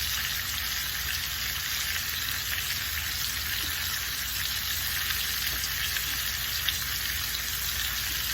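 Pork chops searing and onions and bell peppers sautéing in olive oil, giving a steady sizzle with light crackling.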